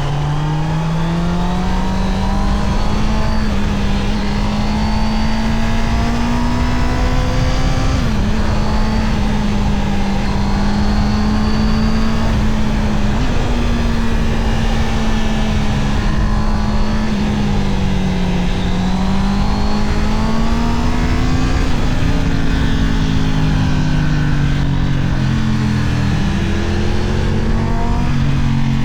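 Honda CB650R's inline-four engine on the move. Its pitch climbs over the first few seconds, then holds mostly steady with a couple of brief dips, and rises and falls several times in the second half as the throttle opens and closes.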